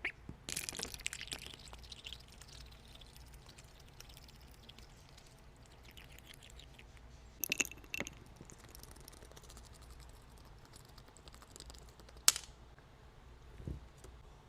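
Faint scattered clicks, taps and rustles over a low hum, with a few sharper ticks, the loudest near the end.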